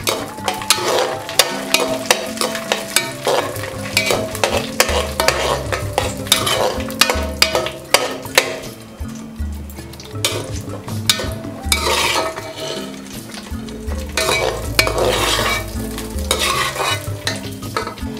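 Cashew nuts frying in ghee in an aluminium pressure cooker, sizzling while a slotted steel ladle stirs them, with frequent clicks and scrapes of the ladle against the pan. The nuts are being roasted golden.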